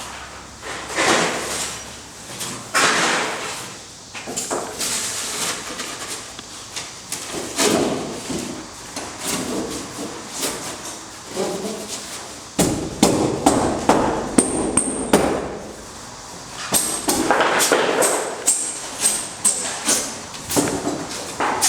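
Irregular knocking and scraping of carpentry work, followed near the end by a run of quick, sharp hammer-like strikes, about two a second.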